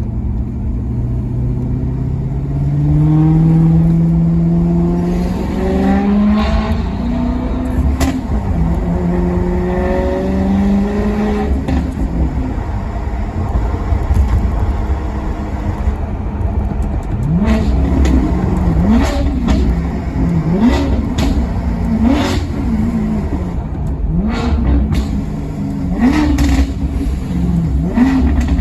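Maserati Quattroporte Sport GT's V8 accelerating, its pitch climbing and dropping back at each upshift. From about halfway there is a run of short, sharp throttle blips about a second apart, as on downshifts, with cracks from the exhaust.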